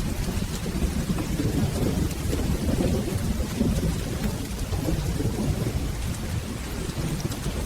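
Steady rain with a continuous low rumble of rolling thunder, and faint scattered ticks on top.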